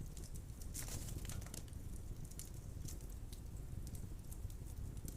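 Wood fire burning in a fireplace: a steady low rumble of flames with scattered sharp crackles and pops, thickening into a quick run of crackles about a second in.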